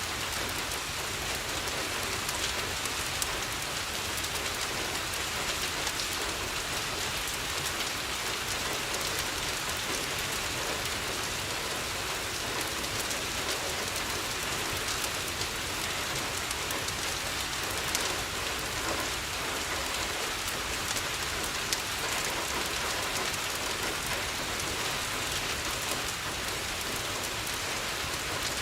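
Steady rain pattering on a window. A few brief, louder clicks stand out now and then.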